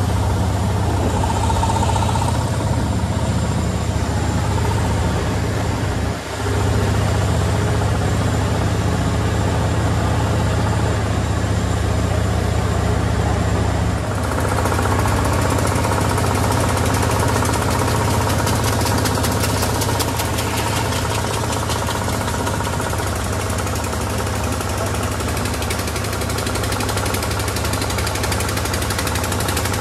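Veteran (pre-1905) car engine running steadily, heard from on board the car, with a strong low drone. It dips briefly about six seconds in, and from about halfway a brighter, rapid ticking rattle joins it.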